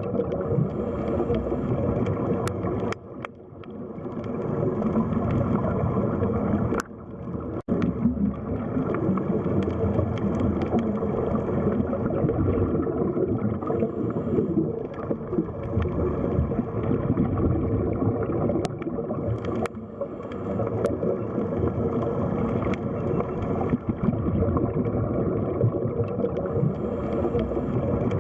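Underwater sea ambience: a steady, muffled rush and gurgle of moving water, with scattered faint clicks.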